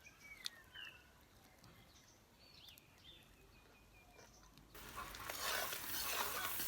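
Faint birdsong of short chirps and slurred whistles, with a click about half a second in. About two-thirds of the way through, a steady rushing noise comes in and grows louder.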